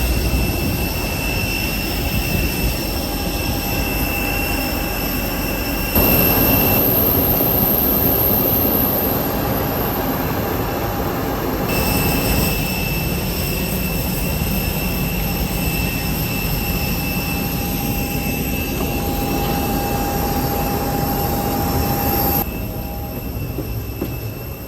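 Jet airliner whine over a steady rushing rumble, with several high tones held level. The sound changes abruptly three times.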